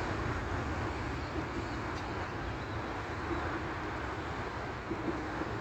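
Jet engine noise of an Airbus A321neo as a steady rumble that slowly fades away.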